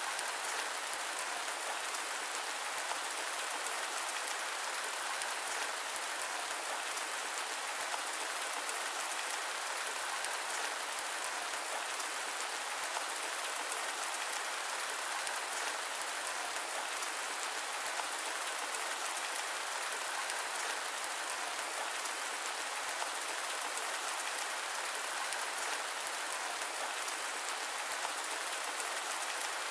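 Steady rain blended with white noise: an even, unchanging hiss with fine drop sounds in it and no low rumble or thunder.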